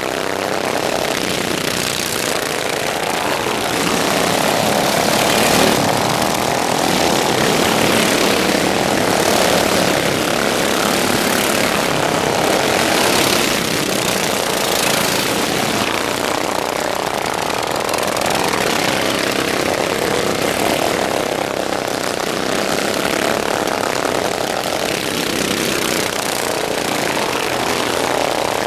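Racing lawnmowers with stock single-cylinder overhead-valve engines running at high revs, the engine noise swelling and fading again every few seconds as mowers go by.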